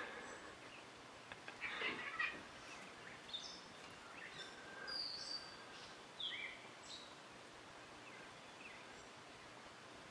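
Scattered short, high bird chirps and whistles over a soft outdoor hiss, with a brief rustling burst about two seconds in.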